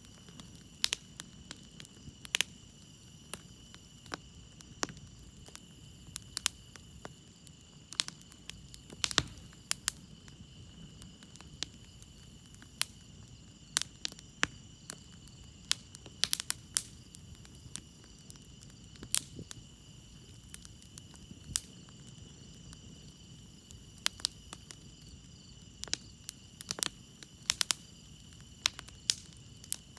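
Campfire crackling with sharp, irregular pops, the loudest sounds, over the steady high trill of crickets.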